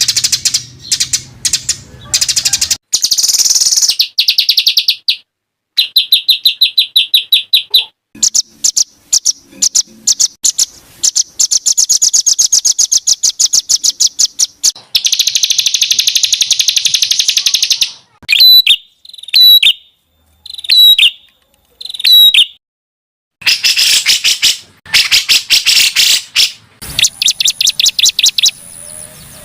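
Recorded songbird song made of fast, dense, harsh trills of repeated notes, the rough 'tembakan' phrases used as masteran tutor song, broken past the middle by a few short separate sweeping notes.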